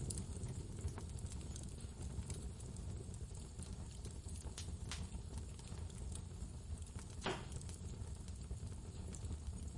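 Wood fire crackling, with scattered sharp pops, the loudest about seven seconds in, over a steady low rumble of storm wind.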